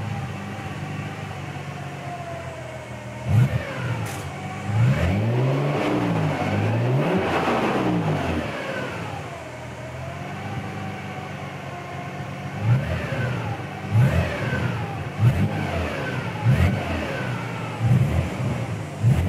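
Nissan 300ZX Twin Turbo's manual transmission whining as the car is driven, a thin whine that rises and falls in pitch with speed over the engine's note. A few sharp thumps come in the second half. The whine is far more pronounced than it should be, the sign of a faulty new 98+ J-spec gearbox; it is loudest in low gear and on deceleration in 1st.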